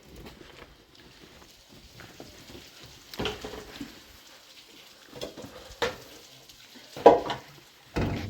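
Several sudden knocks and thumps, the loudest about seven seconds in, over faint scattered handling clatter.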